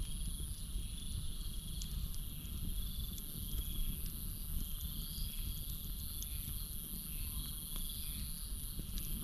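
Campfire crackling, with scattered small sharp pops, over a steady chorus of crickets: a continuous high trill and a lower, pulsing chirping.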